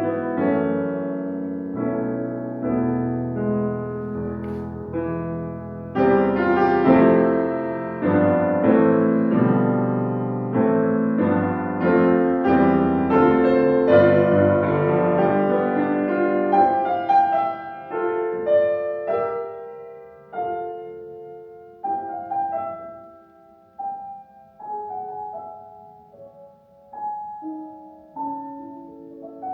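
Piano playing classical music live. It opens with full chords over deep bass notes, loudest from about six seconds in. Past the middle it thins to sparse, quieter notes and chords with short pauses between them.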